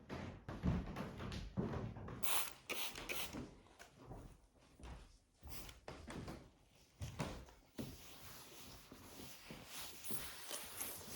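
Irregular knocks and clatter of household objects being handled, like doors, cupboards or drawers, for most of the clip; from about eight seconds in it gives way to a steadier faint hiss.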